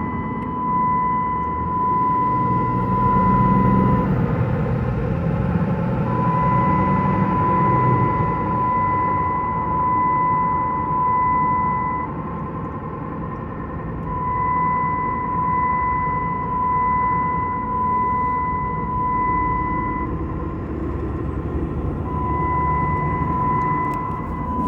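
Ram 3500's Cummins 6.7 turbo-diesel driving on the road: a steady engine and road rumble. Over it, a steady high beep tone sounds for about six seconds at a time, with breaks of about two seconds.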